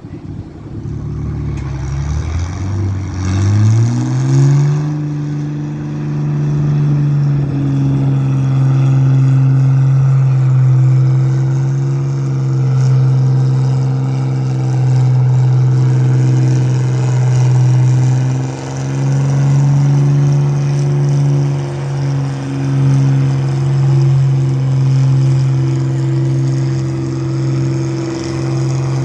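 Engine of a pulling vehicle revving up over the first few seconds, then held at high, steady revs under full load during a pull, with a brief dip about two-thirds of the way through.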